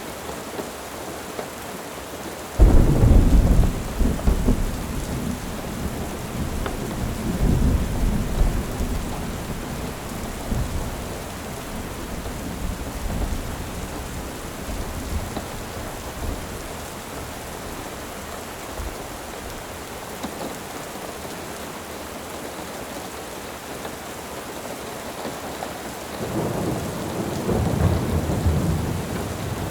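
Steady rain with thunder: a sudden loud clap a few seconds in that rolls on and fades over several seconds, and another roll of thunder building near the end.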